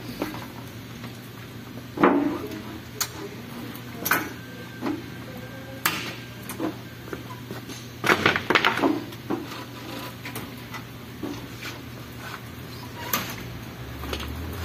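Irregular knocks, clicks and clatter of parts and tools being handled, over a steady low hum.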